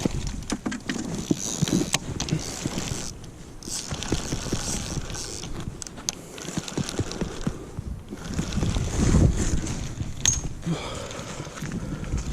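Wind buffeting the microphone in an irregular low rumble that swells about two-thirds of the way through, with scattered small knocks and rustles of handling.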